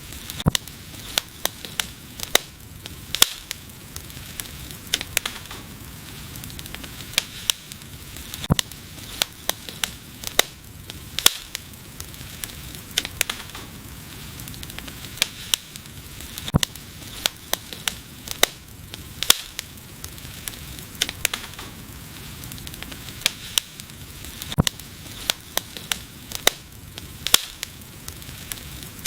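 Wood fire crackling: sharp, irregular pops and snaps, several every few seconds, over a steady soft hiss.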